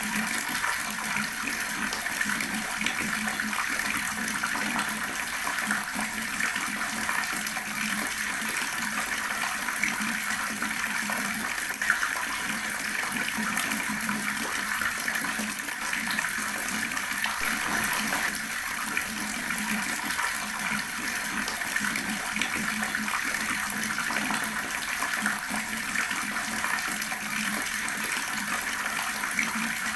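Water running steadily from an outdoor tap, splashing onto the surface below.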